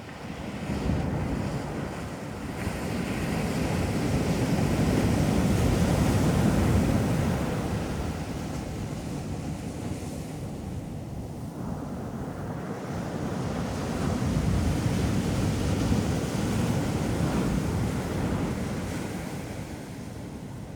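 Ocean surf breaking and washing up a beach, swelling and easing off in two big surges.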